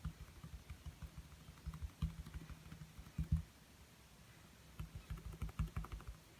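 A paintbrush tapping rapidly against a small canvas, dull taps several a second. The taps stop for a moment about halfway through, then resume in another quick run.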